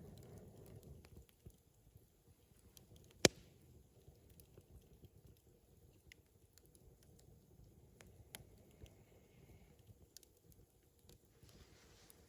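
Wood fire crackling softly: faint scattered ticks, with one sharp loud pop about three seconds in and a smaller one near eight seconds.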